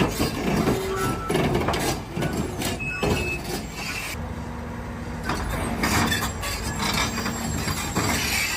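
Heavy machinery running, with repeated knocks and clatter over a steady engine noise; a steady low hum joins about four seconds in.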